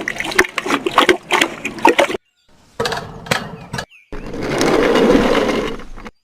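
Water splashing and gushing from a miniature hand pump, in short cut-together pieces: irregular splashing first, then a steady gush that swells and fades about four seconds in.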